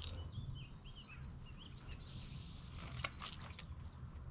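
Small birds singing, a busy run of quick high chirps and whistles, over a low steady rumble; a few sharp clicks come about three seconds in.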